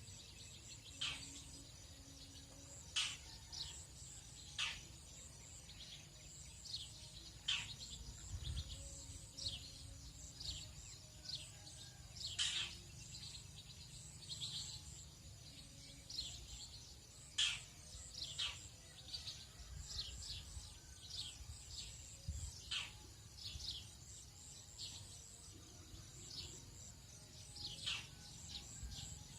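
Tropical dawn chorus: birds giving many short, quick chirps that drop in pitch, over a steady high-pitched insect drone and a low rumble.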